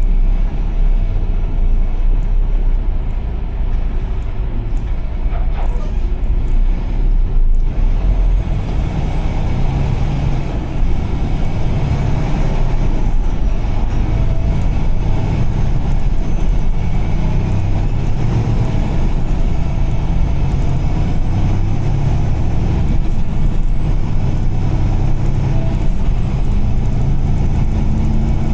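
Steady road noise of a vehicle driving on a rain-soaked highway: a constant low rumble with tyre hiss from the wet road.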